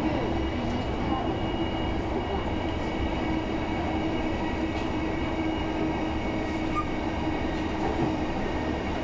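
Interior running noise of a JR East E233-0 series electric train at speed: steady rumble of wheels on rail with a constant whine.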